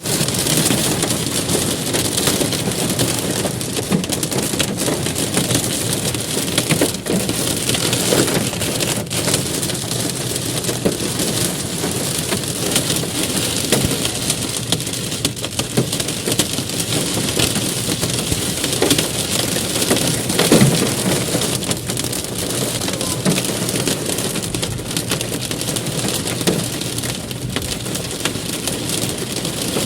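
Hailstones and rain pelting down in a hailstorm: a dense, steady clatter of countless small hits, with a few louder strikes standing out, the loudest about two-thirds of the way through.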